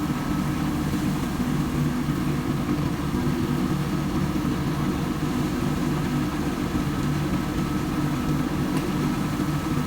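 Tractor engine running steadily at an even speed, with a thin, steady whine above the engine hum.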